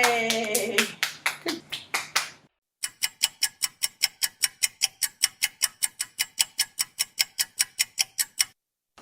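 A child shouts "Yay!" over a few quick claps. Then comes a steady run of sharp, evenly spaced ticks, about four to five a second, lasting some six seconds.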